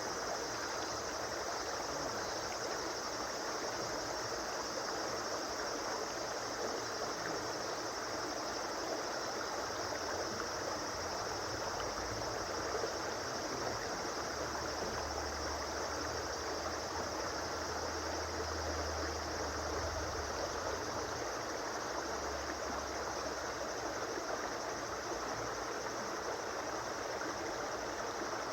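River water flowing in a steady, even rush. A low rumble joins for several seconds around the middle.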